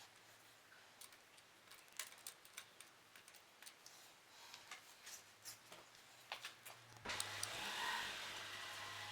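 Light clicks and ticks of small metal parts being handled, then about seven seconds in a steady whirring machine starts up and keeps running.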